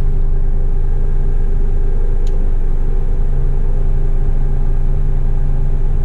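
Heavy rigid truck's diesel engine running steadily while driving: a constant, even drone.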